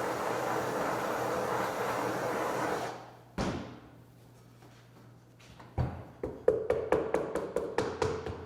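A torch hissing steadily as it is played over the veneered roof edges, cutting off suddenly about three seconds in. Then a single knock, and from about six seconds a quick run of light, sharp knocks, several a second.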